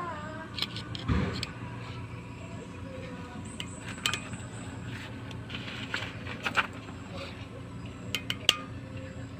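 Scattered metallic clinks and taps of tools and steel parts being handled, with a dull knock about a second in, over a steady low hum.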